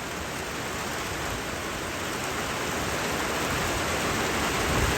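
Heavy rain falling, a steady hiss that grows slowly louder.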